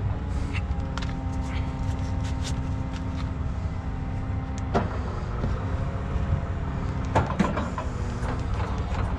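Heavy truck diesel engine idling steadily, with a few sharp metallic knocks and clanks about five seconds in and again about seven seconds in.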